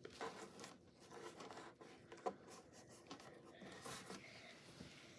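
Faint rustling, scraping and small clicks of tape and cardboard being handled, with one sharper click a little over two seconds in.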